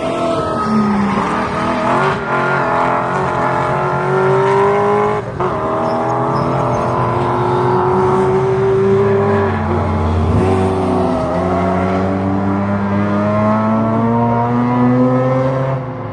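Several classic racing car engines running hard at high revs. Their pitches rise and fall over each other as the cars change gear and go past.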